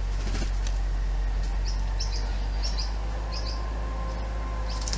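Bananaquit singing: a series of short high chirps, about two a second, over a steady low drone.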